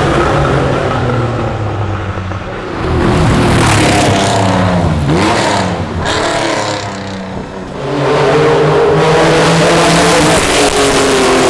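Classic racing car engines revving hard under acceleration, the pitch falling and climbing again at gear changes. The sound eases twice and comes back strongly about eight seconds in with a steady high engine note.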